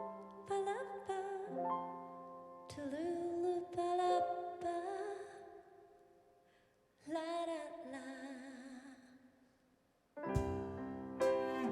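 Live piano ballad opening: soft piano notes, then two held sung phrases with vibrato over the piano. After a brief hush near the end, the full ensemble of piano, cello and percussion comes in together.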